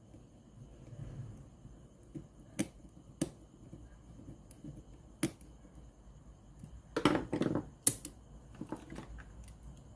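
Scattered sharp clicks and taps of small parts and tools being handled during work on a Sony CFS-515S radio cassette player: a few single clicks, then a tight cluster about seven seconds in.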